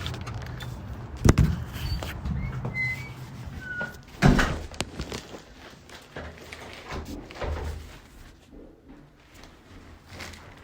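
A few sharp thuds and knocks, the loudest about a second and about four seconds in, with a couple of brief high squeaks between them and a low rumble underneath that fades away near the end.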